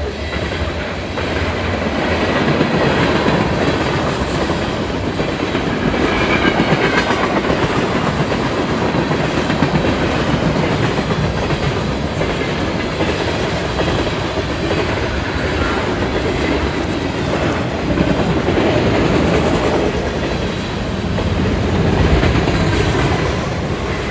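CN manifest freight train passing at speed, a loud continuous rumble of freight cars and wheels on the rails that swells and eases a little.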